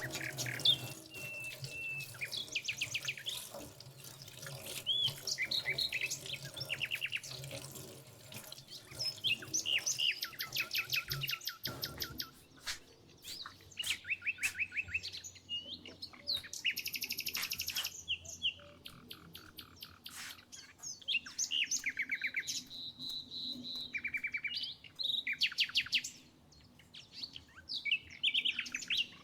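Several songbirds singing, with rapid trills, repeated chirps and short whistled phrases overlapping one after another. A few sharp clicks or knocks come between the calls.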